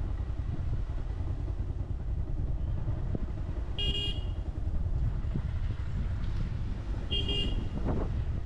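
Motorcycle riding along a road with a steady low rumble. A vehicle horn gives two short toots, about four seconds in and again about three seconds later.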